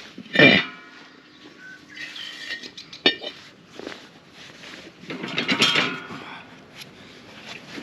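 Short animal calls from livestock, one loud about half a second in and another in the second half, over sharp metal clinks of tools and drill parts being handled.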